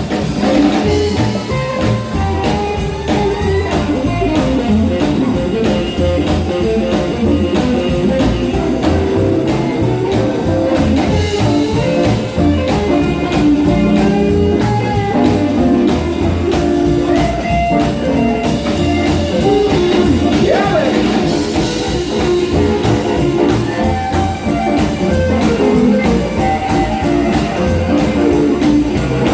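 Live blues band in an instrumental break: a lead electric guitar solo over a steady beat of bass and drums.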